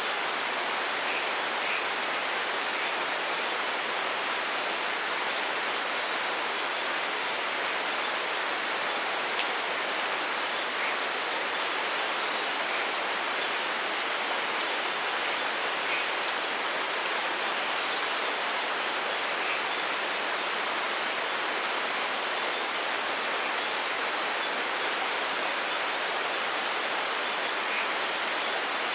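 Steady rain falling, an even hiss with a few slightly louder drops here and there.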